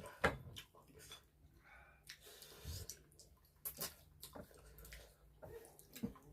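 Close-up eating sounds: a person chewing and smacking on food, with short wet clicks and taps scattered about a second apart.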